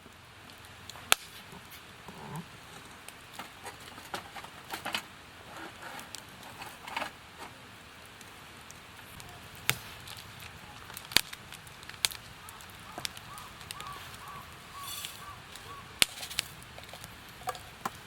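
Wood campfire crackling, with a low hiss and scattered sharp pops and cracks, the loudest about a second in and several more in the second half.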